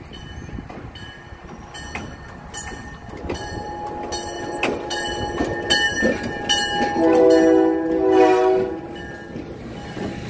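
Diesel-hauled passenger train rolling slowly past, its wheels clicking over old, worn rail joints whose joint bars are bent and sunk in. About seven seconds in, a horn sounds several notes together for nearly two seconds.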